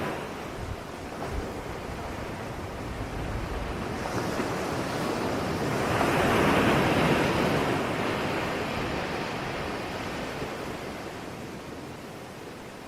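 Ocean surf: one wave swells and breaks about halfway through, its hiss rising and then fading as the water washes back.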